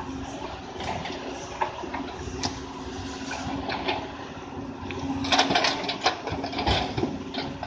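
Doosan DX 200 A excavator's diesel engine running steadily. A cluster of sharp clatters and knocks comes about five to six seconds in.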